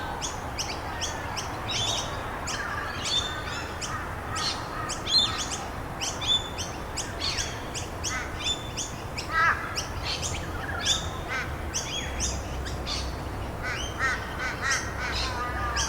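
Many wild birds chirping and calling at once, a dense chorus of short, quick chirps with some repeated lower calls among them, over a steady background hiss.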